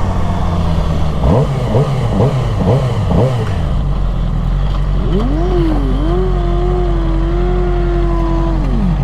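Motorcycle engine under way over wind rush: a quick run of short revs, rising and falling, then the revs climb and hold at a steady pitch for about three seconds before dropping off near the end.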